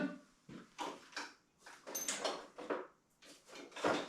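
Several light knocks and clatters of a hand tool being picked up and handled in a small shop.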